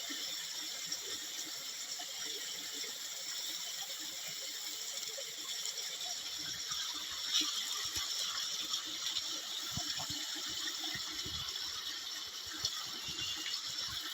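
Steady high hiss of forest ambience, with scattered light clicks and knocks.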